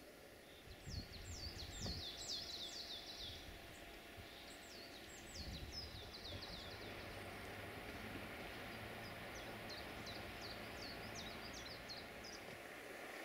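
A songbird singing in three phrases of rapid, falling high notes, over a faint steady outdoor rumble.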